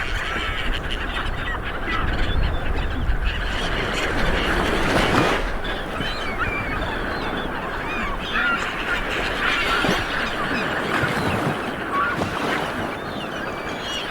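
Light beach surf washing in steadily, with a surge about five seconds in, while birds call throughout in many short chirps.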